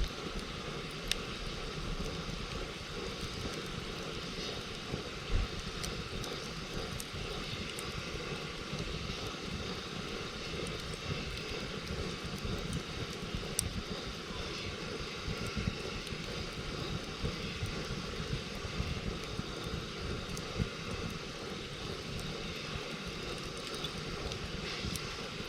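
Campfire burning, with a few sharp crackles and pops from the wood scattered through it over a steady low rumble.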